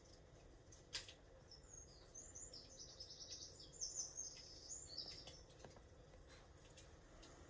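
Faint songbirds twittering: a quick run of high chirps from about a second and a half in until about five seconds in. A sharp click comes about a second in, with a few fainter ticks after it.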